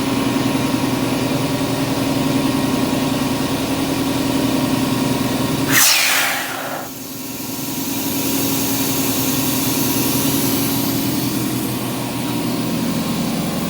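Quincy duplex air compressor with two small 3 hp pumps running steadily, with a fairly quiet, even hum. About six seconds in there is a short hiss, after which the running sound dips briefly and builds back up.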